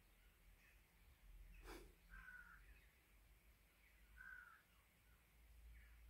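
Faint room tone with two short bird calls from outside, about two seconds apart, and a single sharp click just before the first call.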